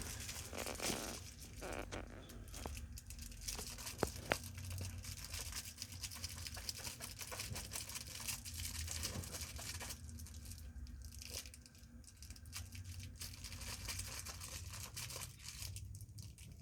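A cat clawing and biting at a catnip toy: irregular scratchy rustling and crinkling with many small clicks.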